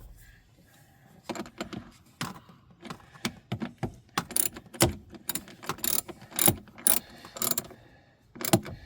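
Hand ratchet wrench clicking in short bursts as it drives in a blower motor mounting bolt.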